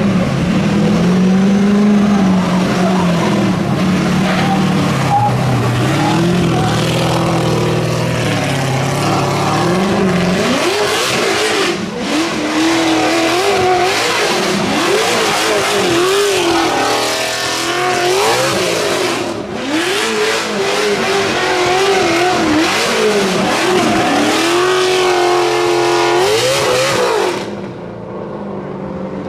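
Racing car engine running hard, its pitch climbing and dropping again and again as it accelerates and revs. The pitch is lower for the first ten seconds or so, then higher. Near the end the sound turns suddenly duller and quieter.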